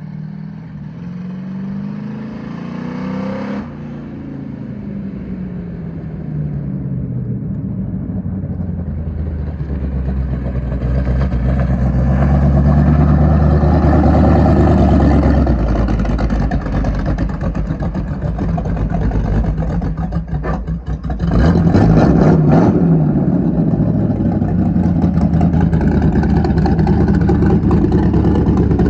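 305 small-block Chevy V8 in a dirt race car being driven and revved: the engine note climbs for a few seconds, falls away, then builds to loud running. There is a brief drop about twenty seconds in, then it comes back up loud.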